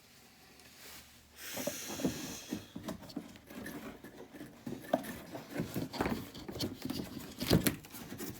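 Work handling noise: rustling with scattered light clicks and knocks, starting about a second and a half in, with one louder knock near the end.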